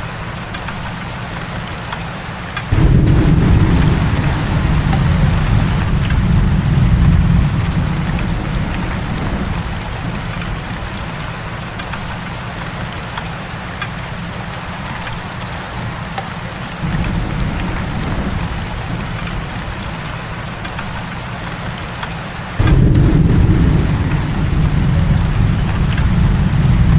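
Steady heavy rain with low rolls of thunder. The thunder sets in suddenly about three seconds in, again around seventeen seconds and again around twenty-three seconds, each time rumbling on for several seconds under the rain.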